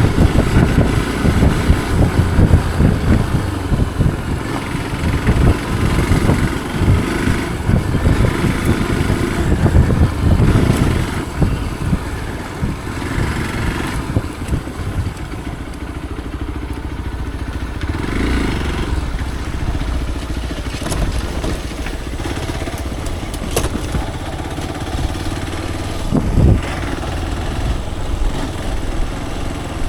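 Motorcycle engine running, uneven and louder for the first dozen seconds or so, then steadier and a little quieter.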